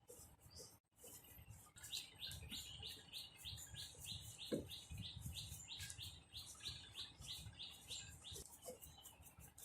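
A bird chirping: a quick, even string of short, slightly falling notes, about four a second, that starts about two seconds in and stops near the end.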